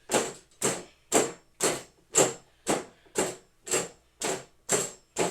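Punches landing on a punching bag in a steady rhythm, about two a second.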